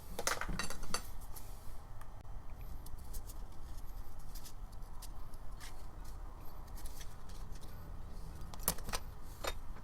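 Scattered light clicks and snips of hand-cutting a tiny gasket, a cluster of them in the first second and a couple more near the end.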